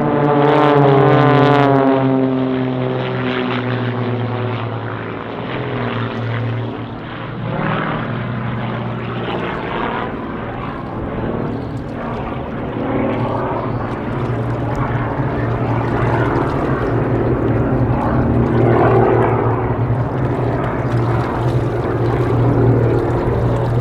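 Propeller-driven aerobatic planes of a formation team flying past: a loud pass about a second in whose engine and propeller drone falls in pitch as it goes by, then a steady drone of engines for the rest of the time.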